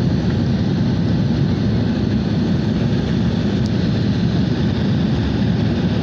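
Steady engine and airflow noise inside an airliner cabin, a constant low rumble with a fainter hiss above it.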